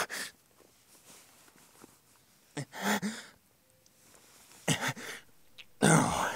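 A badly wounded man breathing heavily and raggedly, with about four pained gasps or groans a second or two apart, the last the loudest.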